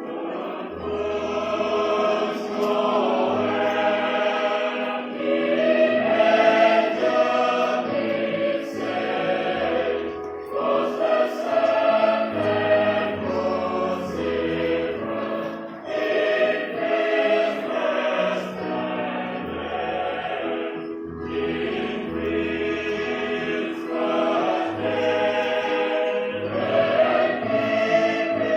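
Church choir singing in several-part harmony, with low bass notes underneath.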